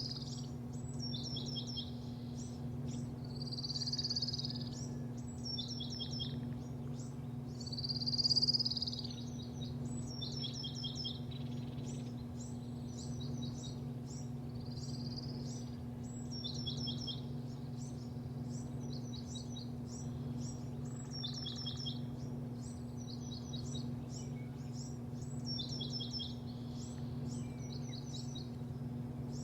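Small birds chirping over and over, short clusters of quick high notes every second or two with a few louder swooping whistles, over a steady low electrical hum of machinery.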